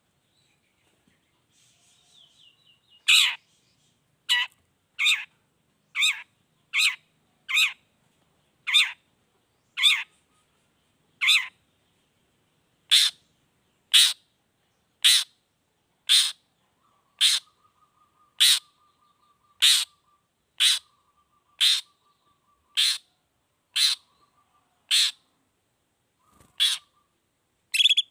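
Long-tailed shrike (cendet) giving a long series of short, sharp 'toet' calls, about one a second, after a few faint chirps at the start.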